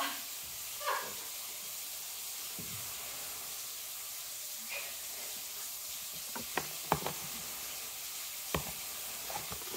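Steady sizzling hiss of food frying in a pan, with a few light knocks and clicks in the second half.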